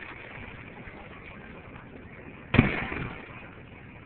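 A single aerial firework shell bursting with a sharp boom about two and a half seconds in, its rumble dying away over about a second.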